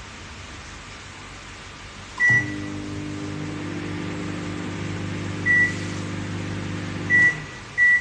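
Sharp 20 L microwave oven: a beep, then the oven runs with a steady low hum for about five seconds before stopping, with three more short beeps, one during the run, one as it stops and one near the end.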